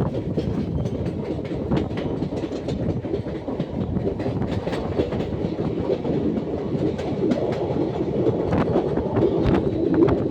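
Passenger train running along the track: a steady rumble with irregular clicks and clatter from the wheels.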